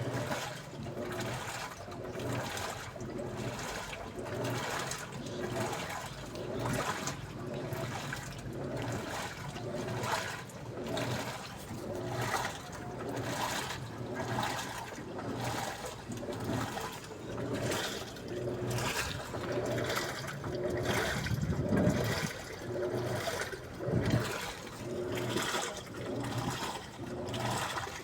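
Daewoo washing machine washing: water sloshing in the drum in a regular rhythm, a swell roughly every second and a half, over a steady low hum.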